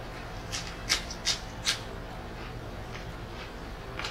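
A person chewing food close to the microphone, with four sharp clicks in the first two seconds and fainter ones after.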